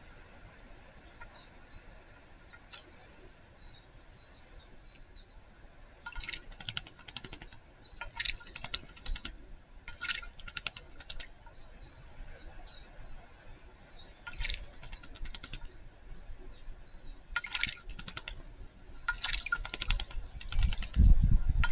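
Small wild birds calling with repeated short, high chirps. Several bursts of rapid ticking come in between. A loud low rumble starts near the end.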